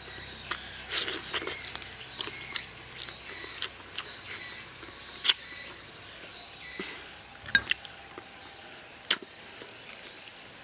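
Eating sounds of someone gnawing a piece of soy-braised duck by hand: scattered short wet smacks and clicks of lips and chewing, the sharpest about five seconds in and a quick pair at about seven and a half seconds, over a faint high hiss.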